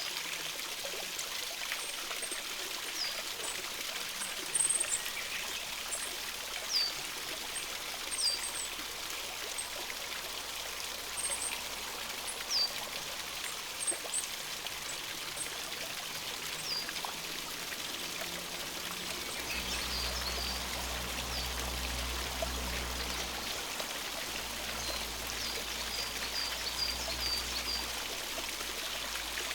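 A forest stream running steadily, with small birds calling over it: short high chips and quick downward notes, and a brief fast trill near the end. A low drone joins partway through.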